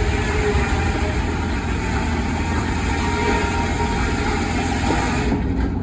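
An engine running steadily with a deep, continuous rumble.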